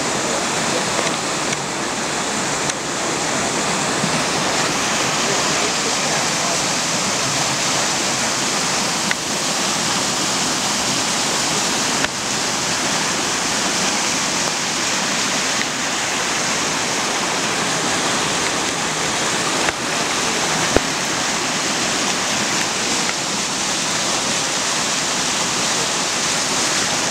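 Fast-moving flash-flood water rushing in a steady, continuous torrent.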